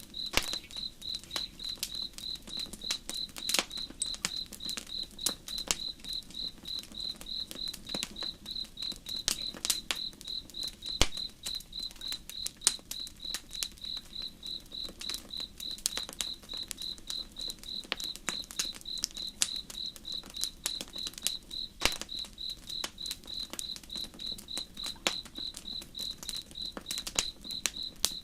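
Campfire crackling with irregular sharp pops, over a cricket chirping at an even pace, about three chirps a second, and a low steady wash of flowing river water.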